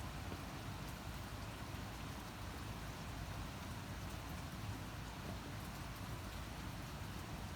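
Steady rain falling, an even hiss of drops with faint patters here and there.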